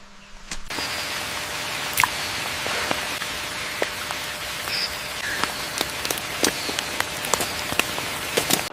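Steady rain with many scattered, sharp drops striking close by. It starts abruptly under a second in.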